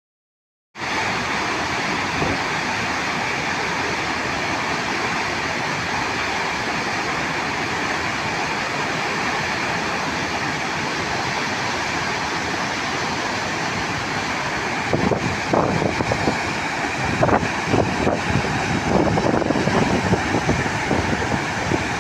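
Waterfall in full monsoon flood: a steady rush of heavy falling water, starting about a second in. It turns louder and more uneven in the last several seconds.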